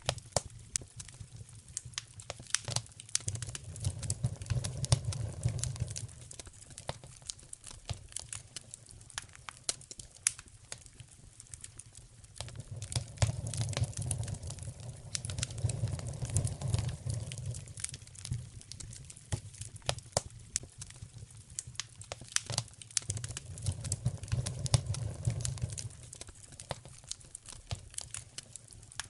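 Wood fire in a fireplace crackling, with frequent sharp pops. A low rumble swells and fades three times.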